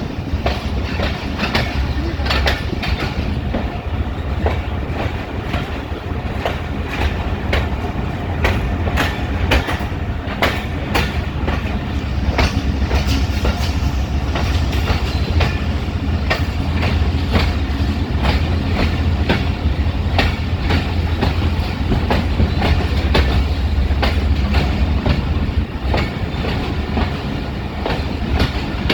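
Train wheels clacking over rail joints: a long run of sharp clicks over a steady low rumble.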